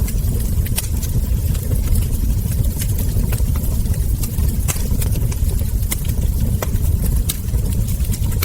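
Wood fire burning: irregular crackles and sharp pops of the burning logs over a steady low rumble.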